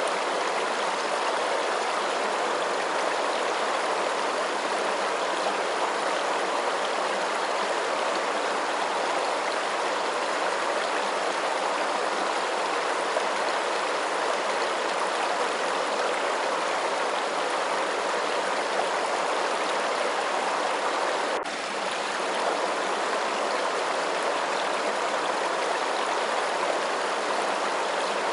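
Steady running water, an even continuous rush, with a brief dip in level about three-quarters of the way through.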